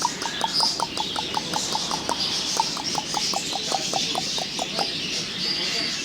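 Birds calling in a bird shop: one bird gives a fast string of short, sharp calls, about six a second, that stops about three quarters of the way through, over the steady high chirping of many small birds.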